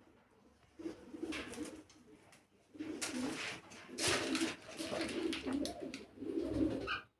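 Birds calling in repeated bursts, with low wavering calls, starting about a second in.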